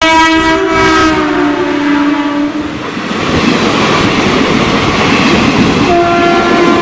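Mumbai suburban local train sounding a long horn as it approaches, the horn's pitch dropping a little as it comes level. Then the rushing rattle of its carriages and wheels passing close by, with a second horn blast starting near the end.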